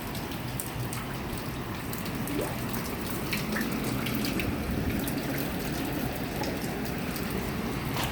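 Steady rain falling, a constant hiss of water with scattered drop clicks.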